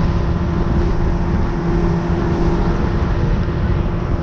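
Motorboat engine running steadily at speed, a constant low hum under a rough rumble of wind and water.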